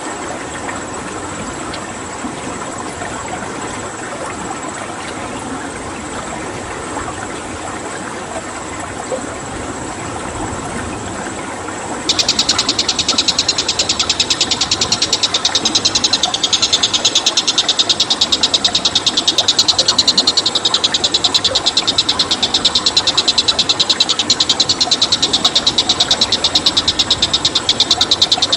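Steady rush of flowing water with a faint, high, steady whine. About twelve seconds in, a loud, high, rapidly pulsing animal trill cuts in suddenly and keeps going over the water.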